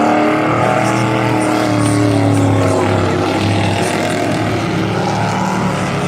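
A pack of dirt-track race trucks at racing speed, several engines overlapping and rising and falling in pitch as they power around the oval.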